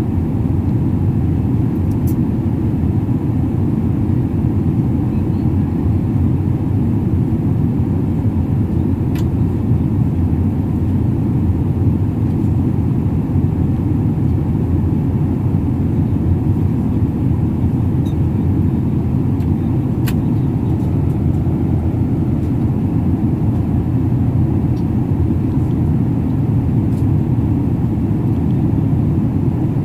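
Jet airliner cabin noise in flight: a steady low rumble of engines and airflow, with a few faint clicks.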